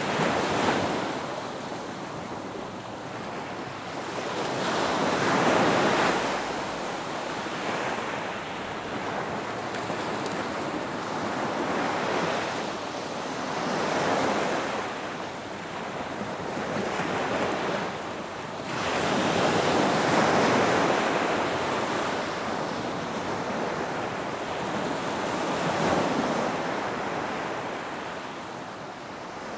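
Ocean waves breaking on a beach, the surf swelling and falling back in slow surges about every six seconds.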